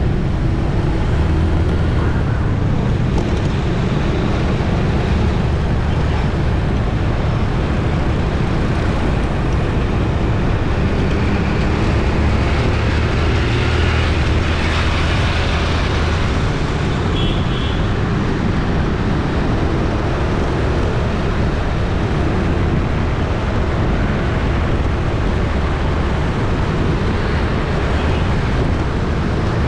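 City street traffic ambience: a steady, dense rumble of passing vehicles, with one passing louder between about 12 and 17 seconds in.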